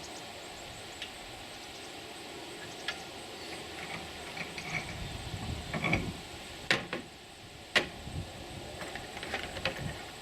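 Steel parts of a homemade hitch-mounted crane clinking and knocking as they are handled and fitted together, with two sharp metal knocks about a second apart past the middle.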